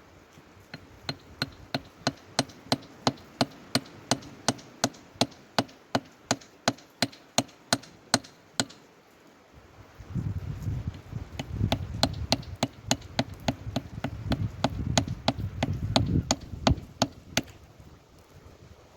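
Geological hammer striking rock repeatedly in a steady rhythm, about three sharp blows a second, to split a stone while fossil hunting. The blows stop briefly about halfway through, then resume over a low rumble.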